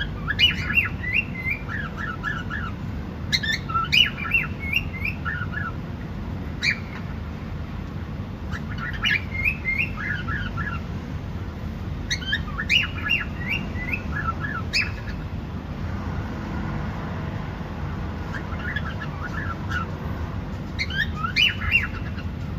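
Cockatiel chirping in quick bouts of short, high chirps, a bout every few seconds, over a steady low background hum.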